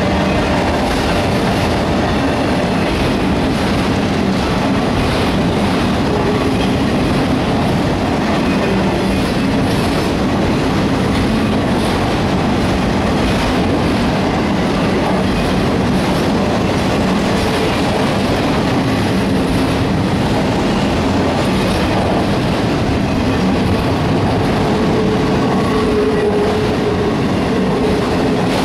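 Autorack freight cars rolling past on a curve: a steady rumble and clatter of steel wheels on the rails, with a brief wheel squeal near the end.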